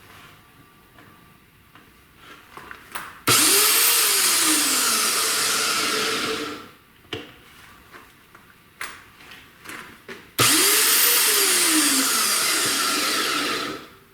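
Anbull metal band chop saw's electric motor switched on and run twice with no workpiece, each run about three seconds long, starting suddenly and then cutting off, with a whine that rises and then falls during each run. There are light clicks of handling between the runs.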